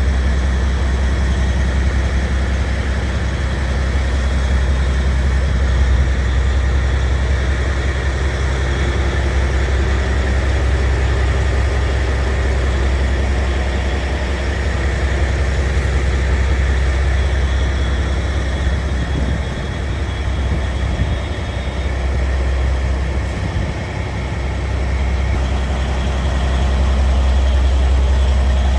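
Scania R tractor unit's diesel engine idling steadily, with a deep, even low hum.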